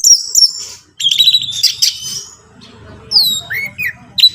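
Orange-headed thrush (anis merah) singing: loud, quick whistled chirps and short falling notes in several rapid phrases, with a brief pause about a second in.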